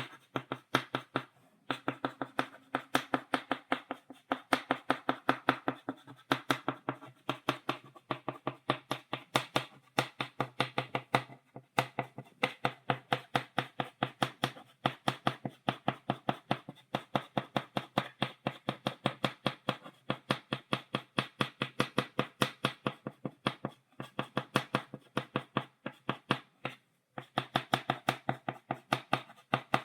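Chalk tapping on a blackboard, stippling dots: rapid sharp taps several a second, with brief pauses every few seconds.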